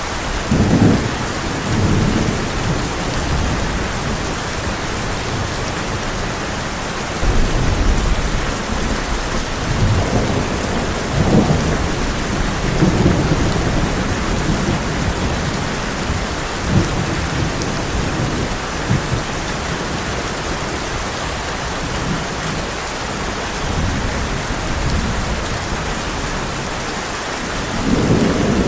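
Heavy rain drumming steadily on a tin roof as an even hiss, with low rolls of thunder swelling and fading several times: about a second in, again from about seven to thirteen seconds, and near the end.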